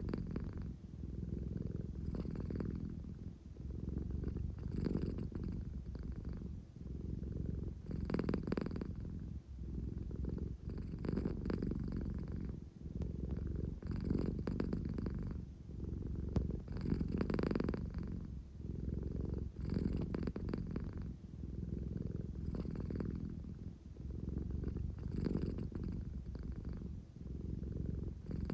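American Shorthair cat purring continuously, a low rumble that swells and eases about every three seconds as she breathes in and out. The purring of a sleepy cat wanting affection.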